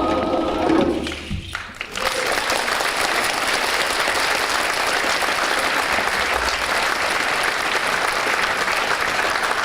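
A choir's held chord ends about a second in, and after a short gap the audience applauds steadily.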